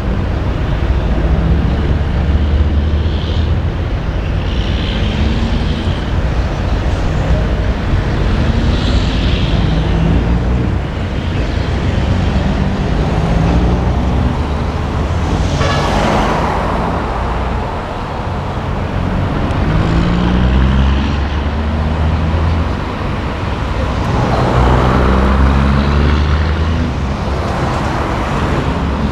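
Diesel semi trucks driving out one after another, their engines running low and steady with short rising notes as they pull away through the gears. About halfway a sudden sharp hiss cuts in and fades, and near the end a louder rush of noise swells up as a truck passes.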